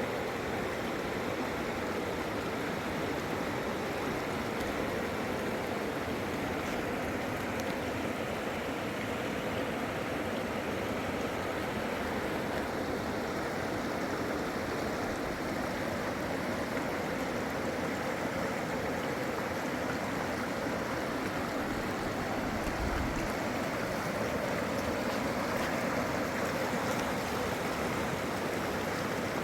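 Fast-flowing river water rushing steadily, a continuous even roar of current.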